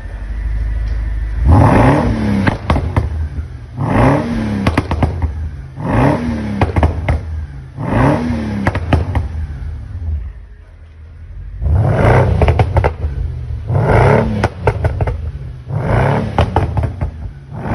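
Mercedes-Benz S500 W221's 5.5-litre V8 revved in repeated short blips, about one every two seconds with a brief pause midway, each blip dropping back with a burst of pops and crackles from the exhaust. The pops come from an engine-software tune that adds overrun pops and crackles.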